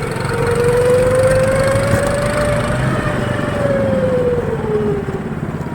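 Motorized snow tow's small engine running under way, its pitch rising slowly and then falling back as the engine speed picks up and drops off.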